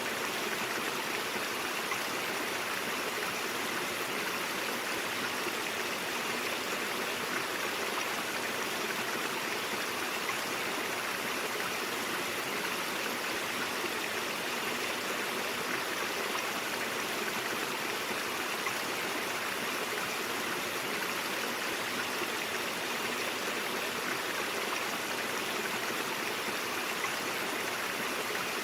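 Mountain stream running steadily, an even, unbroken rush of flowing water.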